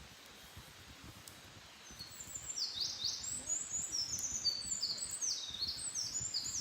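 A small songbird singing a long, fast run of high, sweeping notes, starting about two seconds in.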